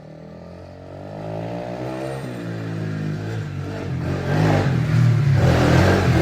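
An engine speeding up and growing steadily louder, its pitch dipping and then climbing, with a rushing noise building over the last two seconds.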